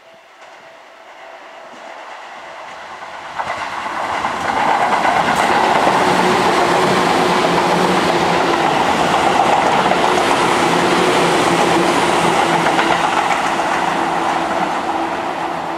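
An electric passenger train passing through the station at speed: its rumble builds over the first few seconds, then runs loud and steady, with wheels clattering over the rail joints under a steady hum, easing off near the end.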